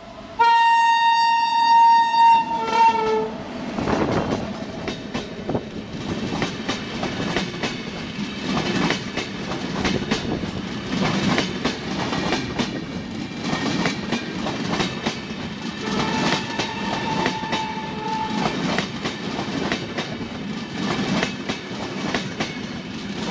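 A train horn sounds for about two and a half seconds, then the wheels of a moving train rumble and clatter over the rail joints. A second, shorter horn blast comes about two-thirds of the way through.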